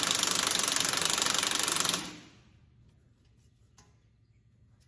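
Power tool running with a fast, even rattling hammer and a lot of hiss, stopping abruptly about two seconds in.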